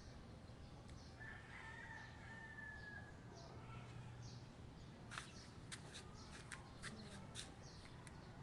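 Faint farmyard ambience: a distant rooster crows once about a second in, a long call that falls slowly, while small birds chirp. A quick run of sharp clicks follows in the second half.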